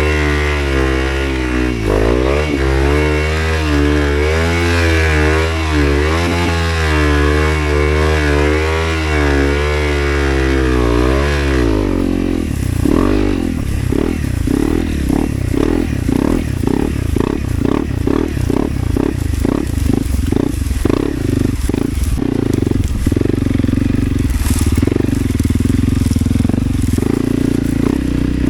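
Motorcycle engine under way, holding a steady but wavering pitch; about twelve seconds in the note drops and turns into a lower, uneven pulsing for the rest.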